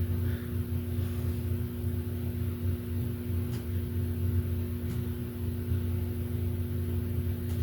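A steady low hum and rumble, with a few faint clicks.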